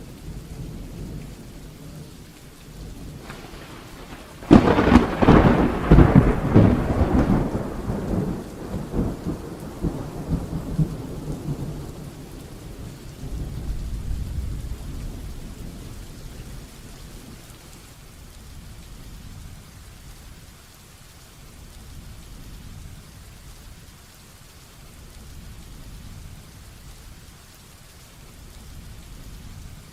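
Heavy rain falling steadily. A close thunderclap breaks about four seconds in, crackles loudly and rumbles away over several seconds, and a softer low rumble of thunder follows shortly after.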